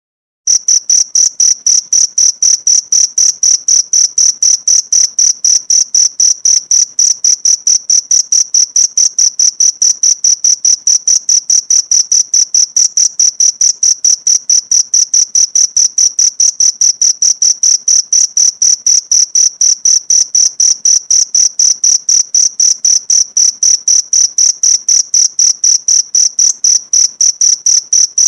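Cricket chirping in a fast, very even rhythm, about four to five high-pitched chirps a second, starting about half a second in.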